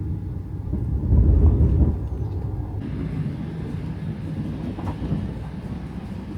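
Passenger train running on the rails, heard from inside a sleeper carriage: a steady low rumble that swells louder about a second in, with a steady hiss coming in about three seconds in.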